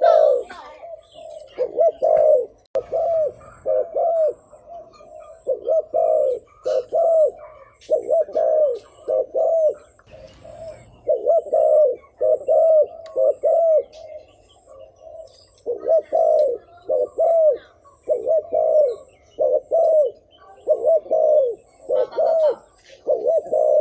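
Spotted dove cooing: short coos in clusters of two or three, repeated over and over with brief pauses between runs, the rapid cooing ('thúc gù') that bird keepers use to lure wild doves.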